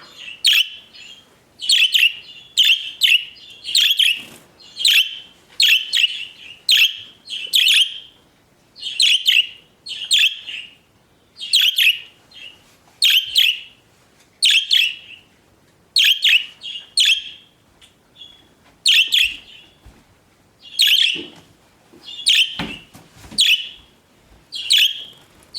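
Pet budgerigars chirping and warbling in short high bursts, about one a second, with short pauses between runs.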